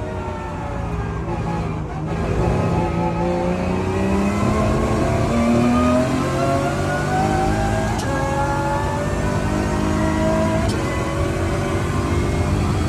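Lotus Emira GT4's 3.5-litre supercharged V6 race engine accelerating hard, its pitch climbing and then dropping back at each of several upshifts.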